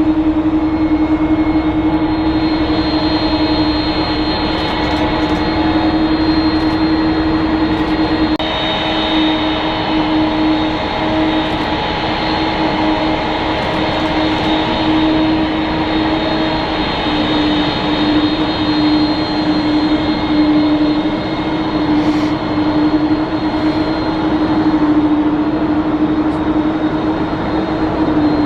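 Boeing 767-200 freighter's twin jet engines running steadily as it arrives: a loud, continuous rush with a strong steady hum and a thin high whine.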